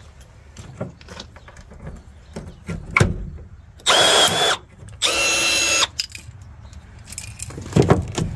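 Power drill run in two short bursts of about a second each, a steady motor whine, with a few knocks of tool on metal and fiberglass before and after, working at a stripped fastener that won't come loose.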